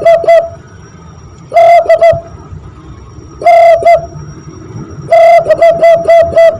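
Cupped hands blown like a whistle to imitate a zebra dove's (perkutut) cooing call: repeated phrases of a longer hoot followed by a run of short, quick notes. A short phrase ends just after the start, two short phrases follow, and a long run begins near the end.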